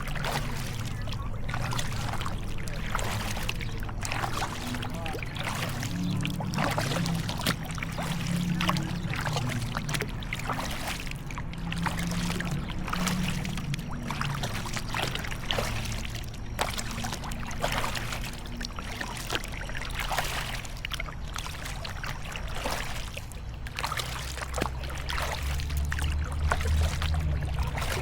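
Kayak paddling: the paddle blades dipping and splashing, water dripping and trickling off them in many small irregular splashes, over a low steady rumble.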